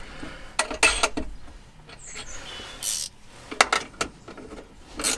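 Scattered metal clicks and knocks of nuts, washers and hand tools as a battery hold-down clamp is fitted, with a brief scraping rub about three seconds in.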